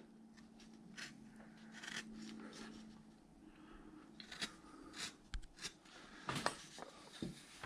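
A 10 mm carving V-tool cutting outline grooves into a wood carving: faint, intermittent scraping strokes with small clicks, busier in the second half.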